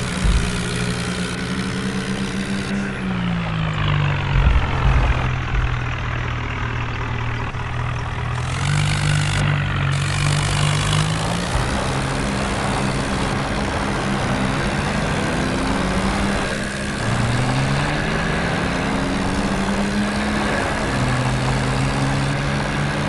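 Tractor engine running under load, its speed dropping and picking up again several times.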